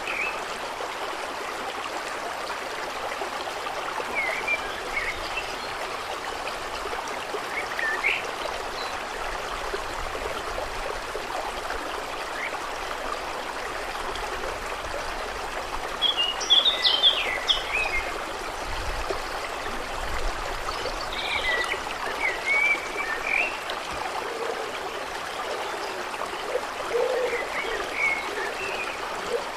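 Steady flowing, trickling water, with birds chirping briefly every few seconds and a busier burst of chirps a little past the middle.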